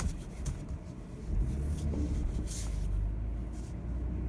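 Vehicle engine running at idle, a steady low rumble that grows stronger about a second and a half in, with soft rushes of hiss over it.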